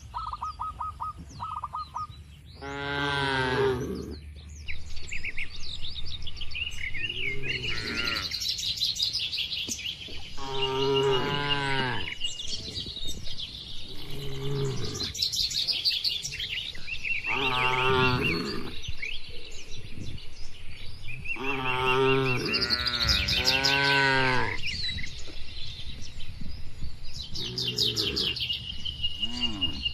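Cattle mooing over and over, about eight calls a second or so long, spaced a few seconds apart. Birds chirp and whistle steadily in the background.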